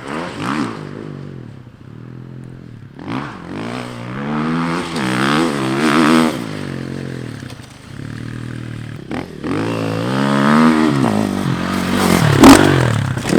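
Husqvarna FE 350 four-stroke dirt bike engine revving hard, its pitch climbing and dropping again and again as the rider accelerates, shifts and backs off while riding around the track.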